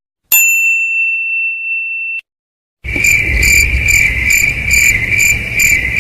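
A single bright bell ding that rings for about two seconds and cuts off, then, after a short gap, crickets chirping in a steady pulsing rhythm of about two or three chirps a second over a low background rumble: the stock 'awkward silence' crickets effect.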